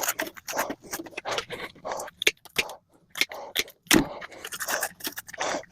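Repeated hand scraping on metal parts from a scrapped microwave, in short irregular strokes, with one sharper knock about four seconds in.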